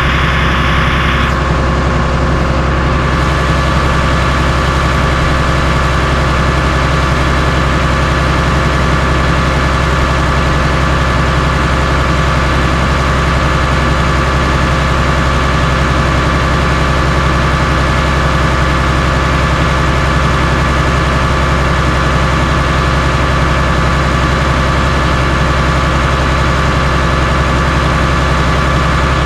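Diesel engine of a Cat D3C LGP bulldozer running steadily at a constant speed, with no impacts or crushing heard.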